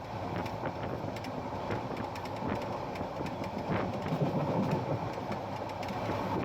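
Parabat Express passenger train running along the track, heard from on board: a steady rumble of wheels on rail with scattered clicks and knocks. The rumble gets a little louder about four seconds in.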